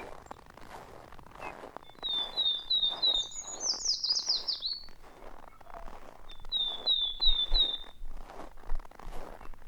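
A songbird sings twice: first a quick run of down-slurred whistled notes that breaks into a higher, rapid flourish, then a shorter run of four similar notes. Under the song run soft, regular crunching steps in snow.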